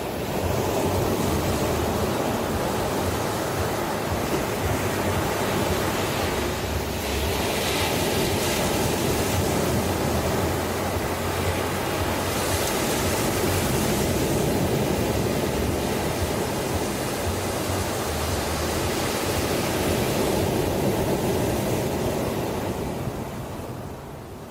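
Ocean waves breaking and washing on a shore in a continuous dense rush that swells and eases slowly, softening near the end.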